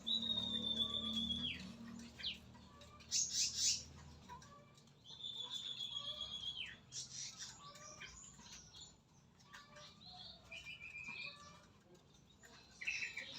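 Songbird calls: a long high whistle held level for about a second and a half before sliding down, given twice, with short chirps and twitters in between.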